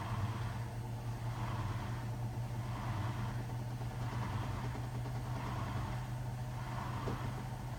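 Hotpoint WMFUG 942 washing machine draining: the drain pump hums steadily while the drum turns, with a swish of water and laundry about once a second, as the last of the water is pumped out before the spin.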